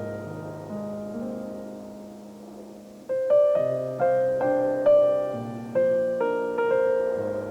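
Solo piano playing a slow, gentle melody. Held notes fade away for the first few seconds, then from about three seconds in a louder phrase of single notes and chords is struck, about two a second.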